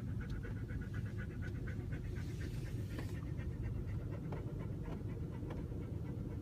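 Dog panting quickly and evenly over a vehicle's steady low rumble, with a brief hiss about two seconds in.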